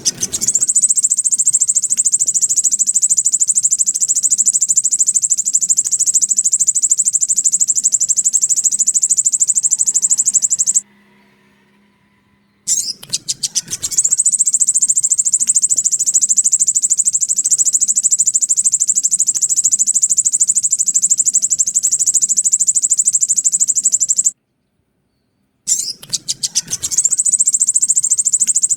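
Crimson sunbird (sogon) song played as a lure recording: long, very high, fast trills, each section opening with a quick run of separate sharp notes. The song breaks off twice, about 11 seconds and 24 seconds in, then starts again.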